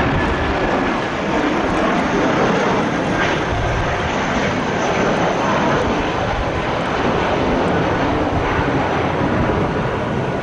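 Jet airliner engines, a loud steady rush of noise with a faint high whine through it.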